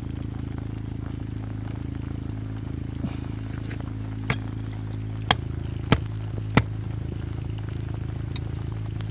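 A steady low hum with four sharp clicks or knocks between about four and seven seconds in.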